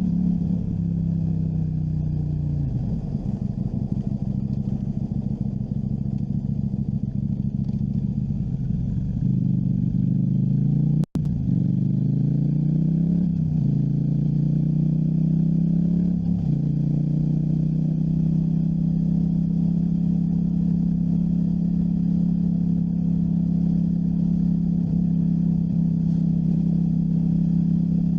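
KTM 790 Duke's parallel-twin engine under way: the revs fall over the first few seconds and then run rough and uneven. About eleven seconds in the sound cuts out for an instant, after which the engine pulls up through two gears, rising in pitch twice, and settles into a steady cruise.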